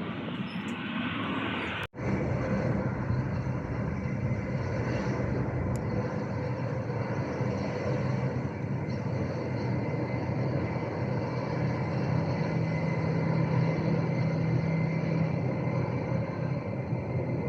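Airliner engines running steadily, a continuous noise with a low hum and a faint high whine. The audio drops out for an instant about two seconds in.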